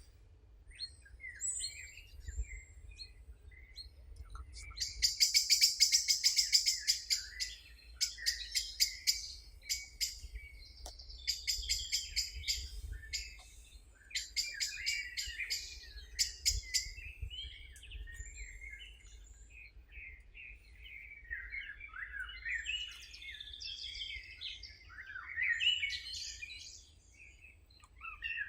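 Wild birds singing: a fast, high trill about five seconds in is the loudest part, followed by repeated bursts of chirps and warbling phrases.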